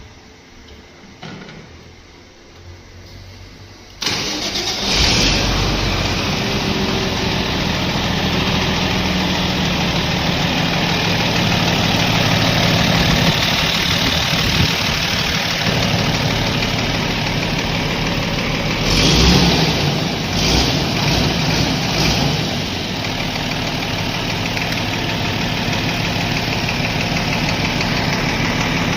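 Tractor engine starting suddenly about four seconds in, then running steadily, with a brief rev around two-thirds of the way through before settling back.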